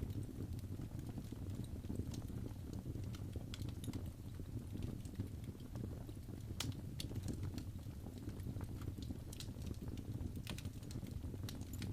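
Wood fire burning in a fireplace: a steady low rumble of the flames with irregular, sharp crackles and pops from the burning logs.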